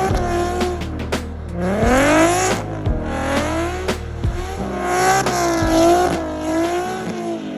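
Car engine revving hard, its pitch swinging up and down again and again as in a drift, over background music with a steady bass line.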